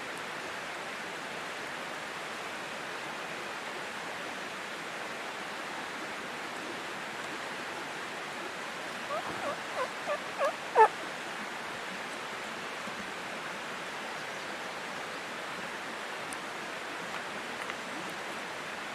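Wild turkey gobbler gobbling once, about halfway through, a quick run of rattling notes ending on the loudest, over the steady rush of a nearby creek.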